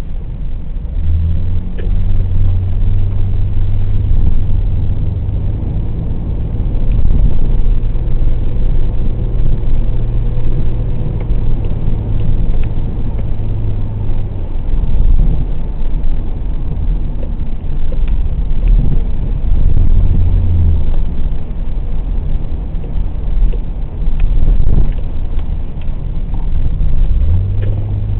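Car driving with its engine running, a steady low drone that holds for long stretches, fades about halfway through and comes back twice, over constant road noise.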